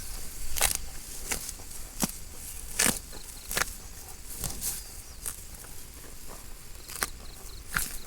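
Cows grazing, tearing off grass in irregular crisp rips every half second to a second, with faint insect chirps in the background.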